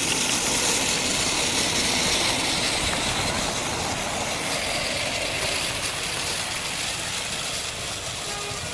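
Miniature railway train running by, a steady rushing clatter that slowly fades as it moves away.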